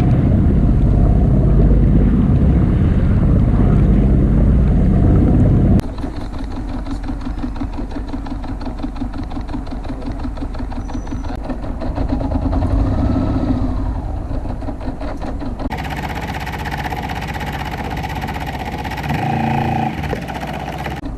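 Loud low wind rumble on the microphone for about six seconds. It cuts off abruptly, and then a sailboat's auxiliary motor runs with a steady, evenly pulsing hum.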